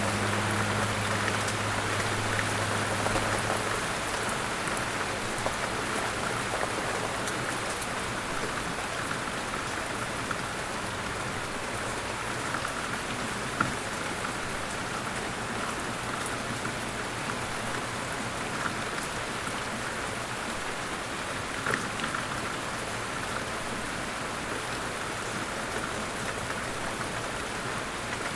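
Steady rain falling, an even hiss with a few sharper drips here and there.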